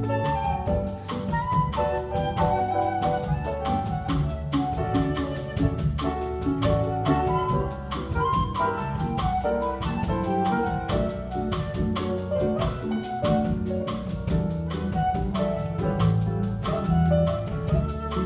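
Live small band playing a jazz-tinged arrangement: a drum kit keeps a steady cymbal beat under bass and a moving melodic line of piano and other instruments.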